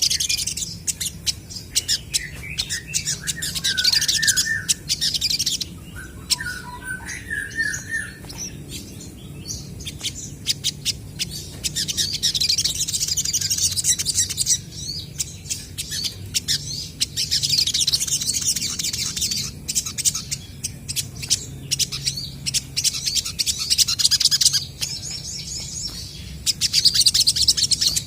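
Olive-backed sunbirds calling back and forth in rapid, high-pitched chattering phrases a second or two long, recurring every few seconds. In the first eight seconds there are also two short runs of lower, falling chirps.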